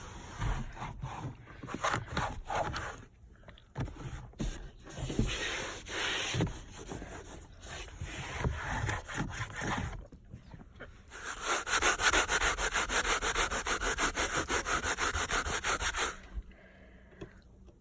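A cloth rag wiping and scrubbing car interior surfaces: irregular rubbing at first, then about five seconds of fast back-and-forth scrubbing at about five strokes a second, which stops near the end.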